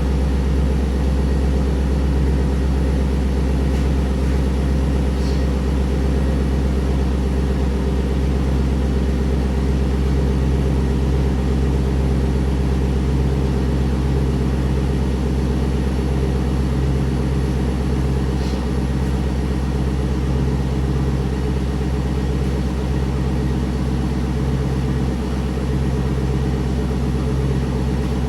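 2002 Camaro SS SLP's 5.7-litre LS1 V8 idling steadily while it warms up after a cold start.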